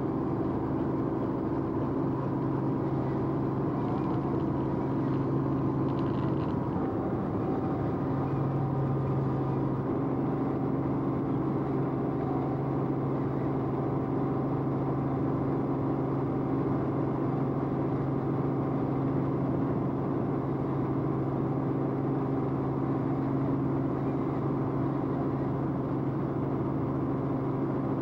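Steady engine drone of the camera aircraft, heard from inside the cabin, with an even low hum that does not change.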